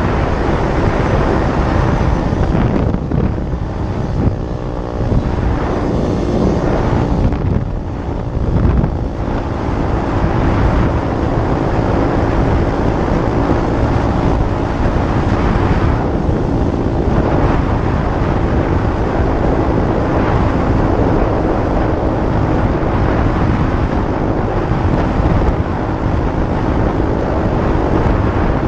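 SSR 125 pit bike's small single-cylinder four-stroke engine running under way, with wind buffeting the microphone. The engine note eases off and wavers twice in the first ten seconds, then holds steady.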